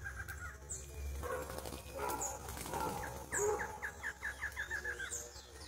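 Songbirds calling in a garden: a rapid run of repeated chirps trails off just after the start, and another run of about ten chirps comes about four seconds in. Thin, high downward calls and a jumble of other calls fill the middle.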